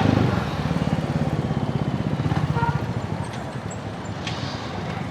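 Motorcycle engine running at a steady cruise with a rapid, even low pulse over road and wind noise, easing off slightly about halfway through.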